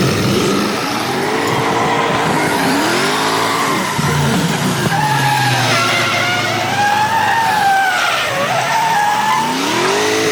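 Car engine revving up and down repeatedly while its tyres spin and squeal, a wavering screech loudest in the middle of the stretch.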